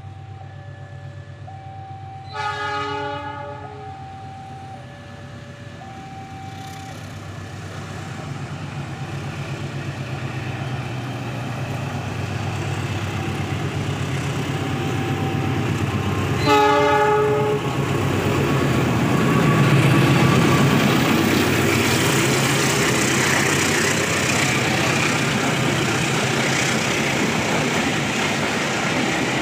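Diesel locomotive horn gives two short blasts, one a few seconds in and one about halfway through, over a level-crossing alarm's two alternating tones. Then the locomotive's engine grows louder as the train passes close by, its wheels clattering over the rail joints.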